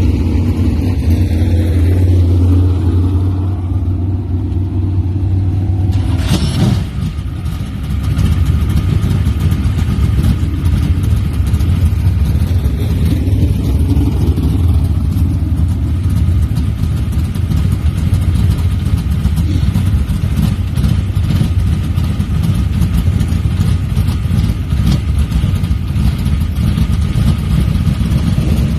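A motor vehicle's engine running steadily, with a short dip and a sharp knock about six seconds in.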